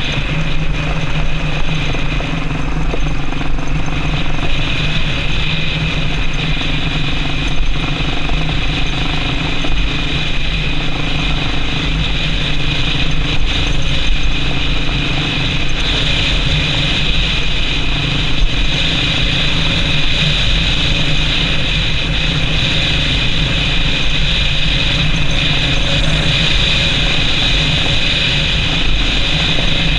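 Yamaha Serow XT225's single-cylinder four-stroke engine running steadily while riding, mixed with a constant hiss of wind and road noise.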